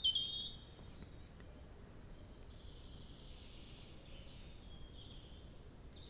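Birdsong: several small birds giving high, thin chirps and short trills, clearer in the first second or so and fainter after.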